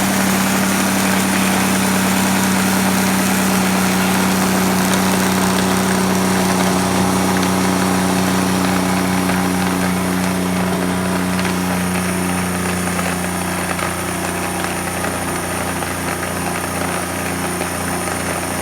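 Blender motor running steadily, blending fruit and almond milk into a smoothie bowl; it gets a little quieter in the last few seconds.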